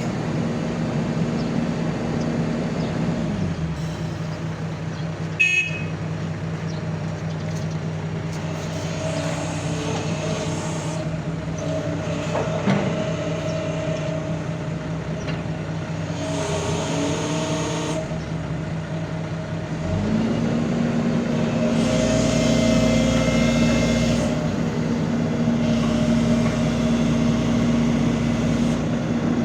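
Backhoe's diesel engine running steadily, dropping to a lower engine speed a few seconds in and revving up again about two-thirds of the way through, where it holds higher and a little louder. There is one sharp click early on.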